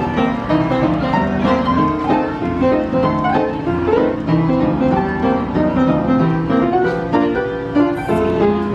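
Piano with bowed and plucked string parts playing a continuous tune, from a coin-operated mechanical music machine.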